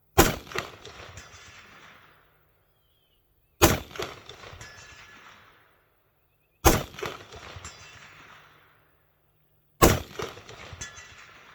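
Four shots from an AR-10 rifle in .308, about three seconds apart. Each crack is followed by a rolling echo that fades over about two seconds.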